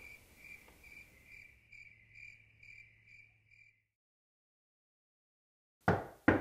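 A cricket chirping steadily at night, about two chirps a second, fading away into silence. Near the end two loud, sharp guitar strums.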